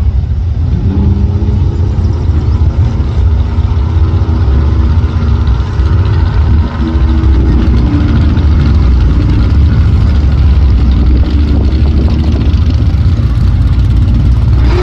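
Several muscle car engines idling loud at a drag strip starting line, a deep steady rumble with their notes stepping up and down now and then as throttles are blipped before the launch.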